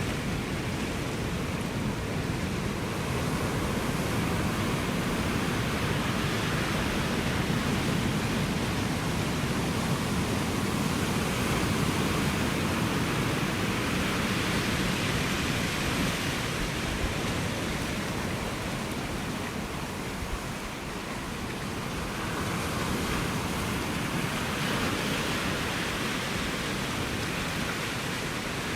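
Ocean surf washing on the shore in a continuous rush, swelling and easing slowly as waves come in, with a brief lull about two-thirds through.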